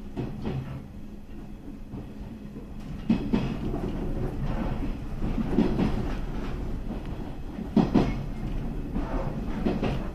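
Local train running along the rails, a steady rumble growing louder as it gathers speed, with the wheels clacking over rail joints, sharpest about three seconds in and as a quick double clack near eight seconds.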